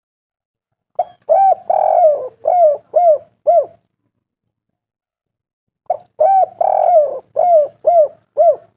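Spotted dove (tekukur) cooing: two song phrases about five seconds apart, each a short opening note followed by a run of five or six quick coos that rise and fall in pitch.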